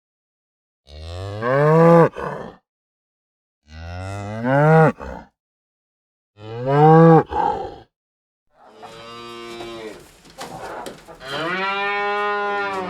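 Cow mooing: three moos of about a second and a half each, every one rising in pitch, with dead silence between them. Then two longer moos with background noise behind them in the second half.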